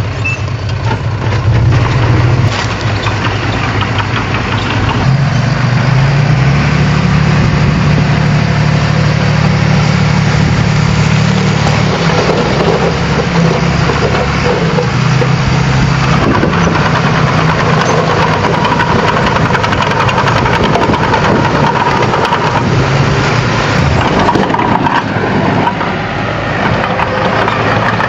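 Bulldozer's diesel engine running hard, its pitch rising about five seconds in and easing back and forth as it works under load.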